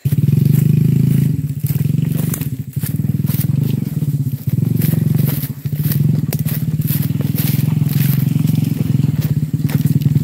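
Motorcycle used for hauling oil palm fruit bunches, its engine running loud and steady, with the throttle easing off and picking up again several times, and light clicks and rattles on top.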